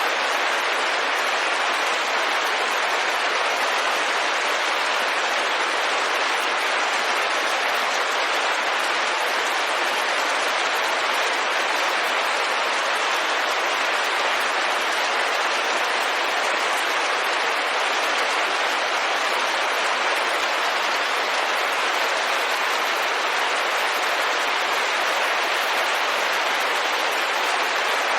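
Rain falling steadily on a window pane, an even patter with no single drops standing out.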